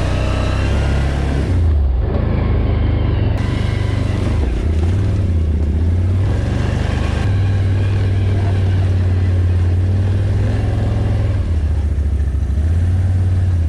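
ATV engine running while riding along a trail, its low note shifting up and down several times as the throttle changes.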